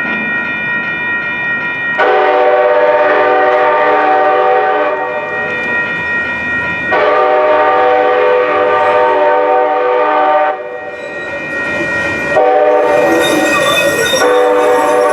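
Train horn sounding three long blasts at a grade crossing, each a few seconds long, the last running on past the end, over a steady high ringing underneath and train running noise.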